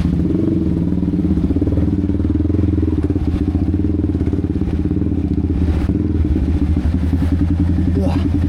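Yamaha XSR155's single-cylinder engine running steadily, held at an even speed with a fast, even pulsing.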